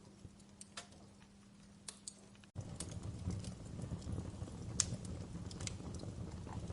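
Wood fire in a fireplace crackling with scattered sharp pops. About two and a half seconds in, the sound cuts abruptly to a louder stretch where a low rumble of flames runs under the crackles.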